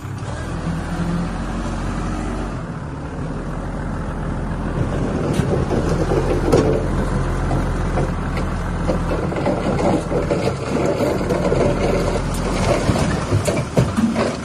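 Diesel engine of heavy earthmoving equipment running steadily, joined from about five seconds in by frequent clanks and scraping.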